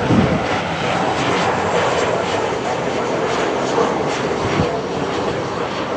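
Jet airliner engines running, a loud, steady rush of engine noise.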